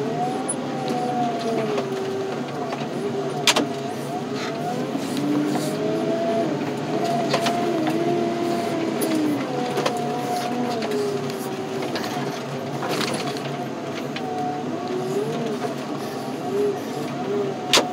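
Heavy yard machinery running steadily, with a whine that slowly rises and falls in pitch as it works, and a few sharp metal clanks, the loudest about three and a half seconds in and another near the end.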